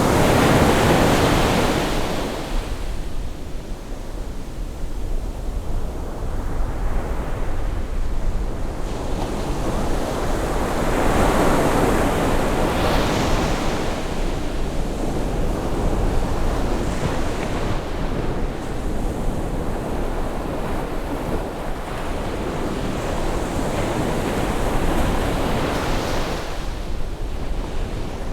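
Sea waves breaking and washing ashore on a rising tide, the surf swelling and easing in slow surges, with some wind on the microphone.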